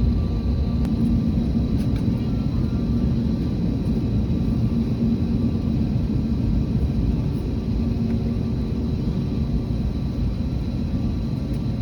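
Airbus A321neo jet engines running steadily: a constant low rumble with a few steady tones held above it.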